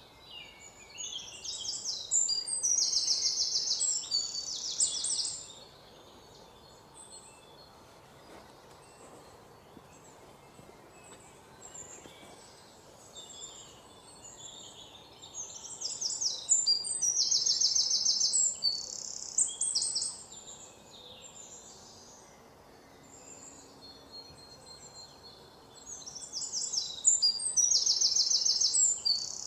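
A songbird singing in a forest: a loud, high song of chirps and rapid trills lasting about four seconds, repeated three times roughly twelve seconds apart. Fainter chirps from other birds fill the gaps, over a low steady background hiss.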